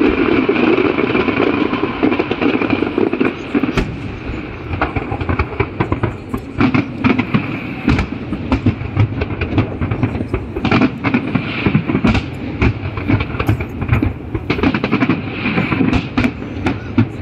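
Fireworks popping and banging in quick, irregular bursts, growing dense about six seconds in, over a steady background din.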